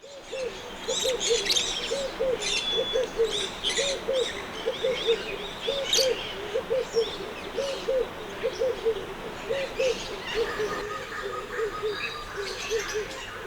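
Male red-eyed dove cooing in his display to a female: a steady rhythmic series of low paired coos, about one pair every three-quarters of a second, softening near the end. Smaller birds chirp and twitter over it.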